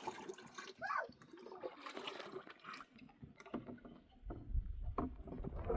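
Liquid sloshing and splashing, uneven and irregular, with a brief rising-and-falling call about a second in. A low rumble joins from about four seconds in.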